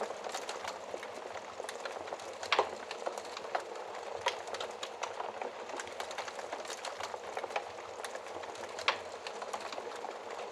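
Wood fire burning in a fireplace: a steady hiss scattered with many small crackles, and two louder pops, one about a quarter of the way in and one near the end.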